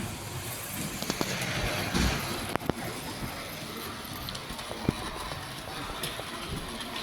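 Steady background noise of a model railway exhibition hall, with a few sharp clicks, the loudest about five seconds in.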